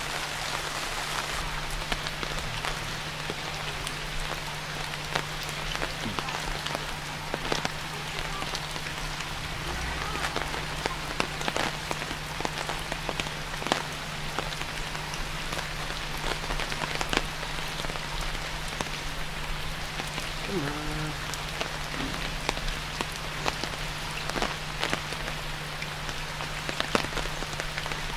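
Steady rain falling on floodwater and wet ground, with many individual drops ticking close by. A steady low hum runs underneath.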